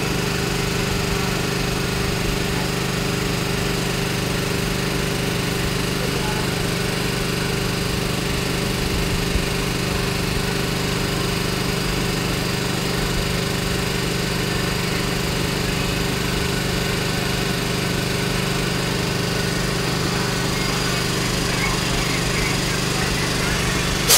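Steady running noise of a passenger train heard from the coach's open doorway at speed: an even rushing noise over a steady low hum. A brief loud burst right at the end.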